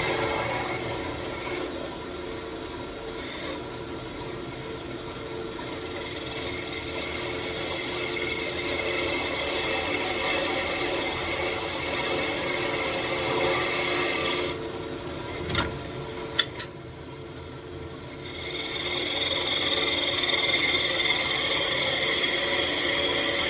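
Wood lathe running with a tool scraping against the spinning walnut wand blank. The scraping eases off past the middle, with a couple of sharp clicks, then comes back stronger for the last few seconds.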